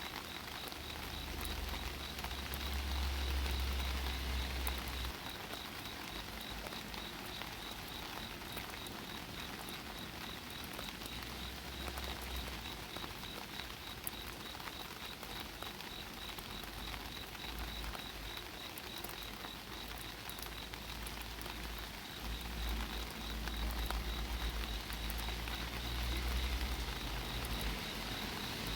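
Steady rain pattering on an umbrella overhead. A faint, high, pulsing insect chirr runs underneath, and a low rumble swells now and then.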